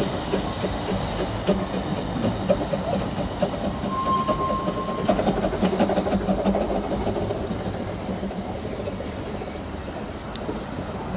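Narrow-gauge Hunslet saddle-tank steam locomotive on the move, its wheels clattering over the rail joints with a hiss of steam, growing a little fainter over the last few seconds. A brief steady high tone sounds about four seconds in.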